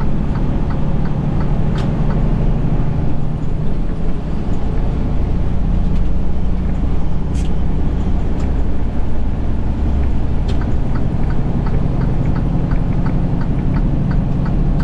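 Semi truck's engine and road noise heard inside the cab while driving on the highway: a steady low drone.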